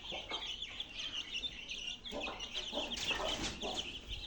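A flock of chicks peeping continuously in a dense chatter of short, high chirps, with adult hens clucking a few times underneath.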